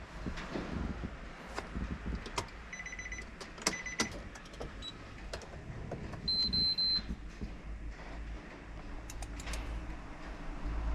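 Several short electronic beeps: two quick pulsed beeps, a short single beep and a longer high steady beep, among scattered clicks and knocks.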